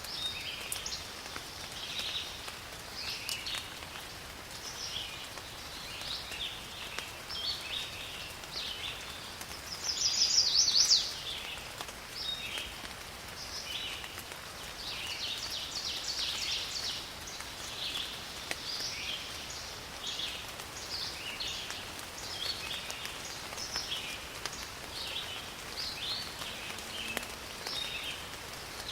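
Steady rain falling in a forest, with many birds chirping throughout. About ten seconds in, a louder, rapid trill lasting about a second stands out as the loudest sound.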